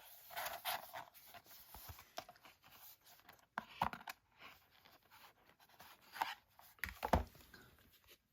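Rustling and light clicks of card and packaging being handled, with a few sharper taps about four seconds in and again towards the end.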